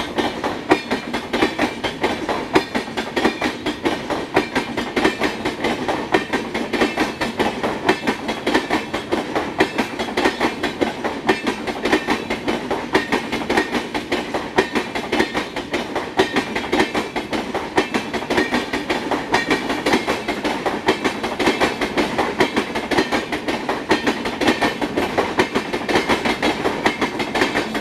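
A passenger train rolling past, its wheels clattering over the rail joints in a continuous rapid clickety-clack.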